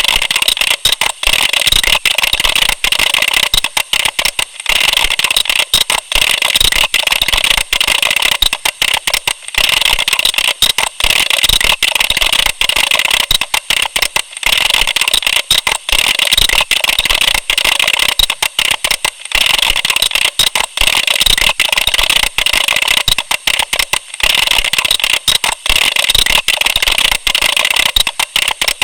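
Computer keyboard being typed on rapidly and continuously, a dense stream of key clicks with many brief pauses.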